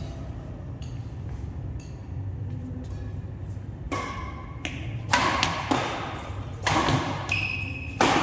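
Badminton rackets striking a shuttlecock during a doubles rally. A few faint hits come early, then a run of sharp strikes follows about every half second to a second from around the middle on, each ringing briefly in the hall.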